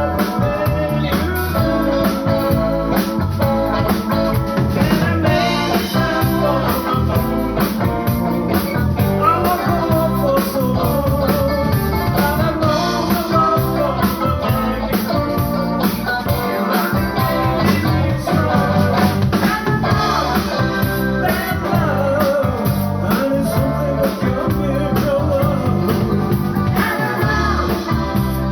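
A live blues-rock band playing, with electric guitar over a steady drum kit beat and a singing voice.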